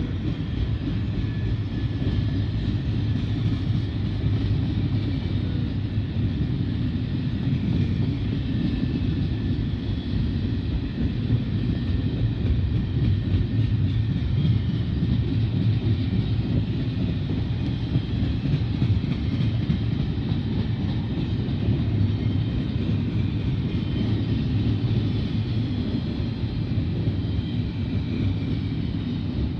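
BNSF double-stack container train rolling past at speed: a steady rumble of wheels on rail, with a faint high squeal wavering over it.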